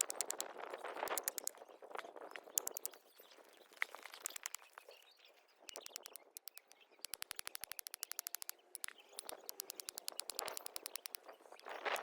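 Wood campfire crackling: irregular sharp pops over a soft hiss, turning into a fast, even run of clicks in the second half.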